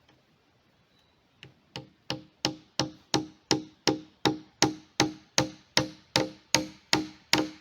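Hammer blows at a steady pace of about three a second, each with a short ringing tone. They start about one and a half seconds in and grow louder.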